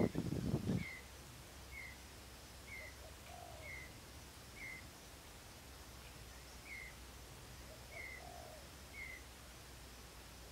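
A bird calling a short, slightly falling chirp about once a second, with a lower call twice, over a quiet rural background. A brief louder rustling noise comes in the first second.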